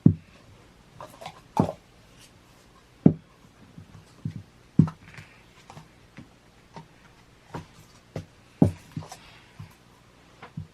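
Play dough and plastic toy tools being handled on a tabletop: a series of dull thumps and lighter knocks at uneven intervals, with about six louder thumps.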